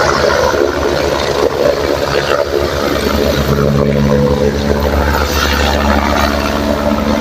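Helicopter running close by: a loud, steady rotor beat with engine hum, the hum growing stronger about halfway through.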